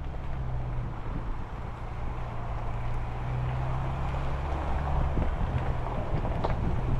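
Steady low hum, like a running motor vehicle, with wind noise on the microphone and a few faint knocks.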